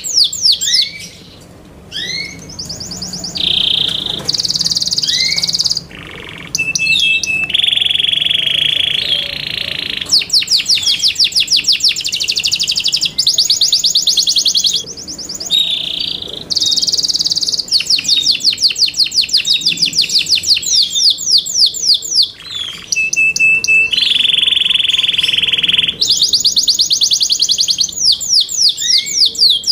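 Yorkshire canary song: long phrases of rapid, repeated high down-sweeping notes alternating with steady held rolls. The phrases are broken by short pauses at about 6, 15 and 23 seconds.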